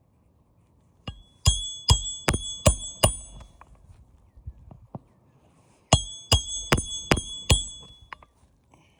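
Hammer nailing a roofing shingle back down: two quick runs of ringing metal-on-metal strikes, about six and then five, at roughly two and a half blows a second.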